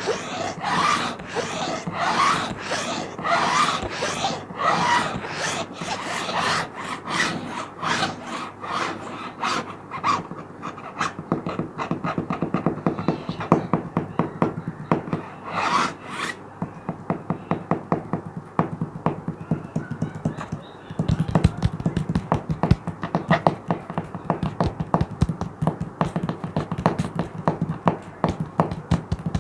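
A plastic sheet being scratched. It starts with slower, broad strokes, about one a second. From about a third of the way in it turns to quick, dense scratching, which grows fuller and heavier about two-thirds of the way in.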